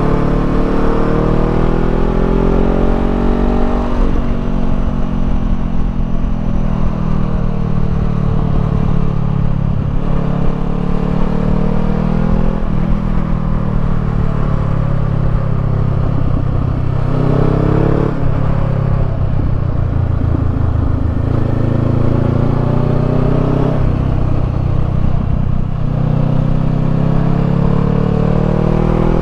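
Honda 500 parallel-twin motorcycle with a Termignoni slip-on exhaust, ridden under way: the engine note climbs steadily, then drops back at each gear change, several times over, with a steady low wind rumble on the microphone.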